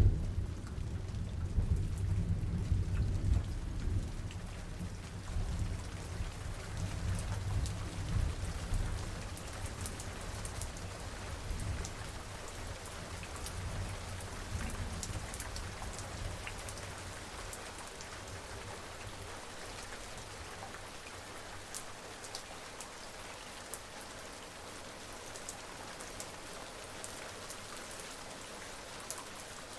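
Steady rain with scattered drop ticks. Over it a long, low thunder rumble rolls on and fades away over the first half.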